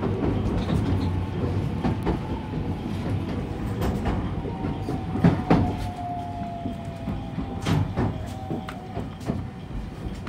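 Marine Liner electric train rolling slowly over rail joints and points, its wheels clacking irregularly over a steady rumble, with a faint thin wheel squeal about halfway through. The train is slowing as it comes into its terminal stop.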